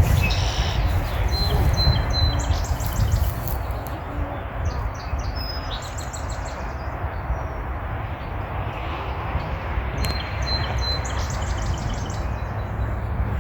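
Birds calling in the trees: quick runs of high, chattering notes about two seconds in and again near the end, with a few thin whistled notes, over a steady low rumble.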